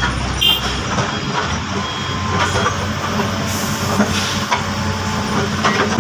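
Heavy diesel machinery running steadily, with a few knocks.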